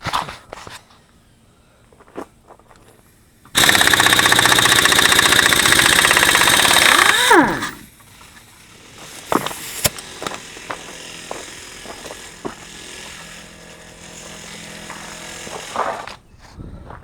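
A loud, rapid mechanical rattle runs for about four seconds and winds down with a falling whine. It is followed by a quieter steady machine hum with scattered clicks.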